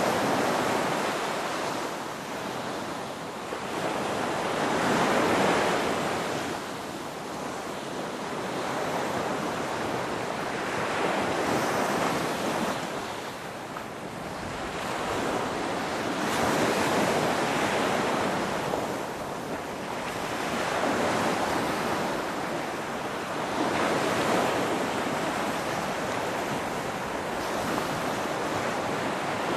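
Ocean surf: waves breaking and washing up the shore, a continuous rushing hiss that swells and eases about every five to six seconds.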